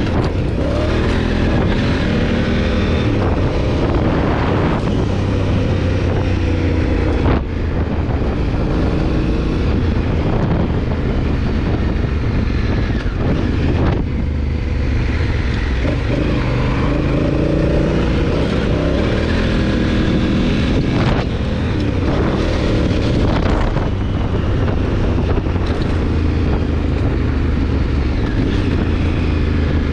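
Honda Africa Twin CRF1000L's 998 cc parallel-twin engine under way, its revs rising and falling as the motorcycle is ridden, with a couple of brief dips in level.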